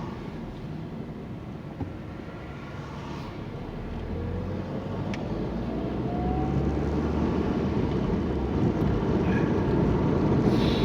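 Car engine and road noise heard from inside the cabin, growing steadily louder as the car gathers speed, with the engine note rising about four to seven seconds in.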